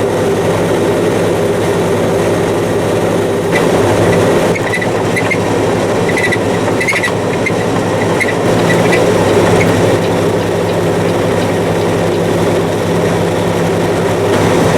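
Heavy diesel engine running steadily, a constant low drone with rumbling noise and a few faint high squeaks or clicks in the middle.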